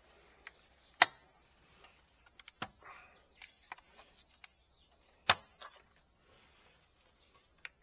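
A few sharp clicks and knocks, the loudest about a second in and again a little past five seconds, with lighter taps and ticks in between, as of hard parts being handled.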